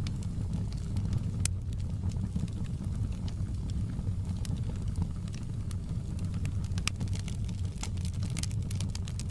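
Wood fire crackling: a steady low rumble of the flames with scattered sharp pops and snaps, coming thicker near the end.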